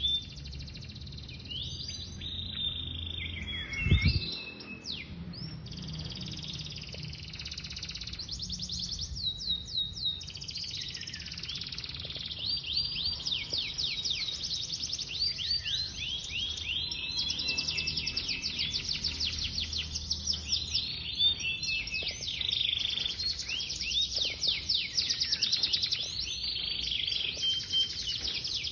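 Domestic canary singing a long song of rapid trills, each trill a quick run of repeated falling notes, with one low thump about four seconds in.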